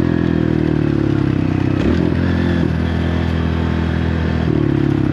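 Dirt bike engine running on a trail ride, its pitch steady apart from throttle changes about two seconds in and again near the end.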